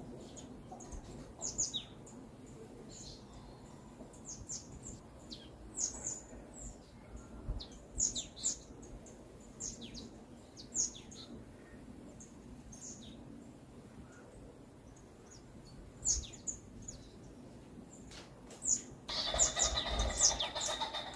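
Small forest birds chirping: many short, high, falling chirps scattered irregularly, over a faint background hiss. Near the end a louder, fuller burst of bird sound begins.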